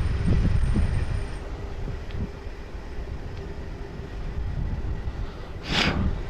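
Wind and tyre rumble while riding a pedal-assist bike, louder for the first second, with a faint steady hum under it. A short, sharp noise comes about six seconds in.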